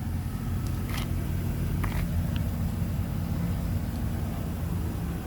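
A motor vehicle engine idling steadily with a low hum, with a few light clicks about one and two seconds in.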